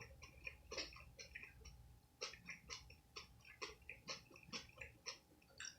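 A person chewing crunchy food: a quick, irregular run of small crisp crunches, several a second.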